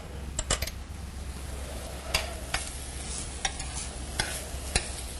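Diced vegetables and tomato paste sizzling in butter in a saucepan while a spoon stirs them, with scattered clicks of the spoon against the pan.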